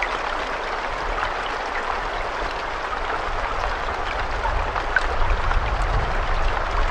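Steady rain falling: an even hiss of many small drops. A low rumble underneath grows stronger about two-thirds of the way through.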